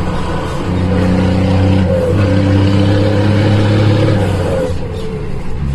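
Scania 124 truck's straight-six diesel engine running through an open, straight-piped exhaust. The revs rise and grow louder about a second in, hold, then drop back near the end.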